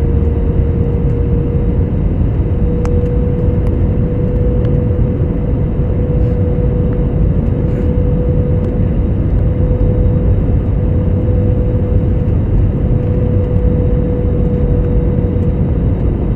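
Airliner engines and rushing air heard from inside the passenger cabin: a steady roar with a deep rumble and a steady whine that edges slightly higher in pitch about two seconds in.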